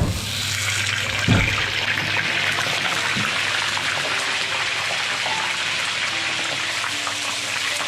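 Water running steadily from a tap, with a single knock about a second in.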